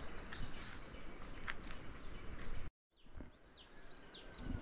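Rural outdoor ambience: birds calling in short, high, falling chirps over a steady background hiss. The chirps come more often after a brief dropout to silence a little past halfway.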